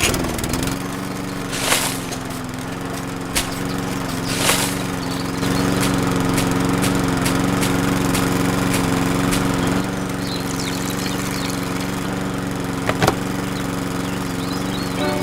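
Small motor of a miniature DIY tractor starting and running at a steady pitch, a little louder for a few seconds in the middle, with a few sharp knocks.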